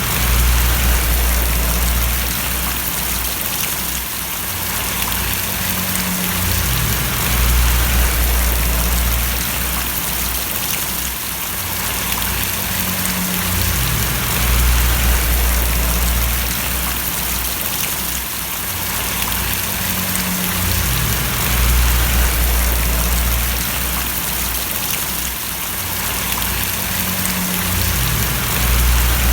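Steady rain splashing and pattering, with a low rumble underneath that swells about every seven seconds.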